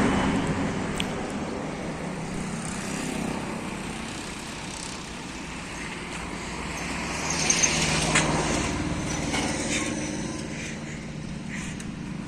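New Holland tractor's diesel engine running steadily. It grows louder for a few seconds around the middle, with a couple of sharp clicks, then eases back.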